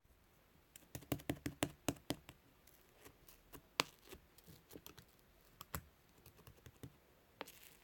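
Slime being squeezed and pressed by hand, making a run of sharp clicks and pops. The clicks come thick and fast about a second in, then scattered, with a brief squishy rustle near the end.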